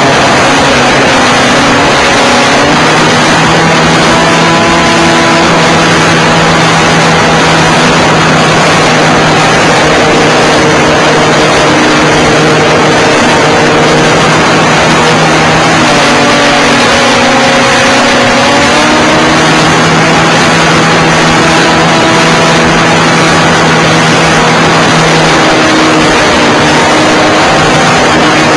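Nitro glow engine of a Seagull Harrier 3D .91 RC airplane running at high power, heard loud from an onboard camera with a strong rush of wind over the microphone; the engine note shifts in pitch now and then as the throttle changes.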